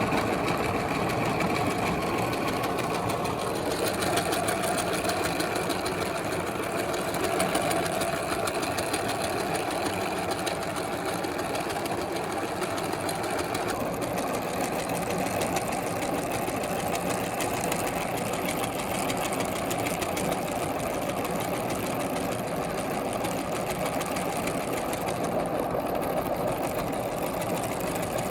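Meat grinder running steadily with a continuous motor whir as it grinds bubble gum; the sound changes slightly about halfway through.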